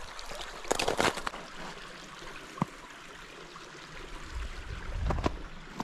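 Creek water running steadily over rocks. A few sharp knocks come about a second in and one near the middle, and a low rumble rises near the end.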